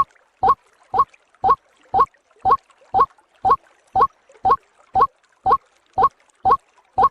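Recorded lure call of a white-breasted waterhen (ruak-ruak): short, slightly rising notes repeated steadily about twice a second.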